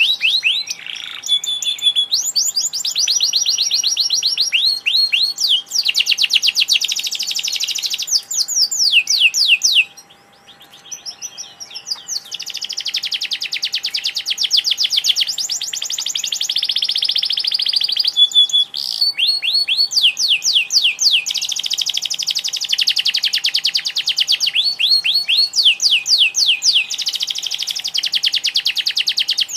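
Canary singing continuously in long, rapid, high trills of repeated notes, with one short pause partway through.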